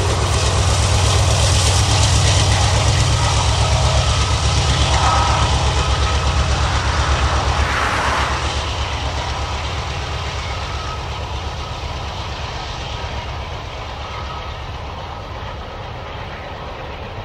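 A distributed-power diesel locomotive on the rear of a loaded grain hopper train passes close by. Its engine throbs low and strong for the first half, along with the rumble of the wagons. The sound then fades steadily as the train moves away.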